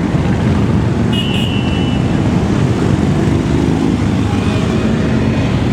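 Many motorcycle engines running together in a steady rumble as a parade of bikes rides past, with a brief high beep a little over a second in.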